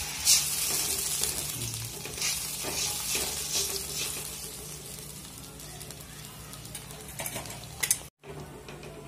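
Freshly ground masala paste sizzling in hot oil in a metal kadai, the sizzle dying down as the mixture settles. A steel spoon stirs it, clicking and scraping against the pan now and then. The sound cuts out for an instant near the end.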